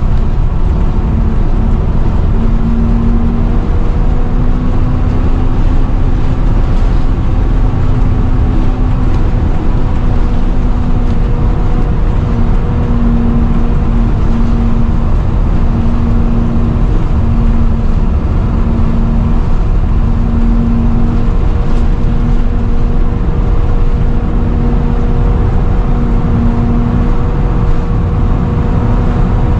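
Volvo B7TL double-decker bus running, a dense low engine rumble under a loud, steady whine: the 'hoover' noise these buses are known for. The whine breaks up into short on-and-off stretches from about halfway through.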